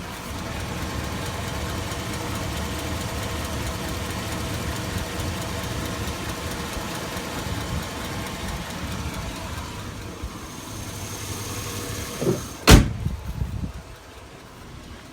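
A warm 2002 Chevy Avalanche 5.3L V8 idling steadily, with a tick on the left side that the owner suspects is a cracked exhaust manifold or worn valve guides. Near the end a single loud slam, after which the engine is heard much more faintly.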